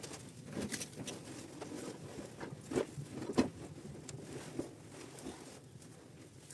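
Irregular light taps and knocks, with the two loudest a little under and a little over three seconds in.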